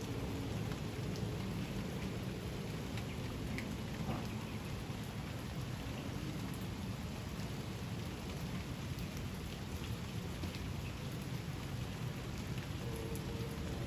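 Steady rain falling, with a constant low rumble underneath and scattered light drop ticks.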